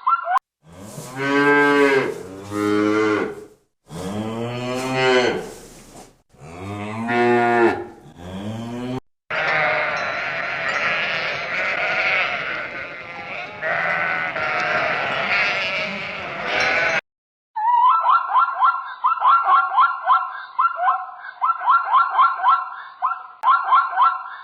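Loud, drawn-out bleats from livestock, several single calls, then many animals bleating together for several seconds. From about two-thirds of the way in, a different call takes over: a fast, evenly pulsing high call in quick repeated runs.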